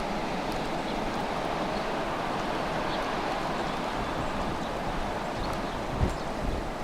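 Steady wind noise of a snowstorm, with a short low thump about six seconds in.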